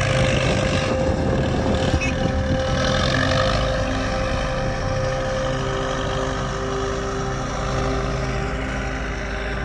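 A motor vehicle running steadily: an even engine drone with a rushing noise over it.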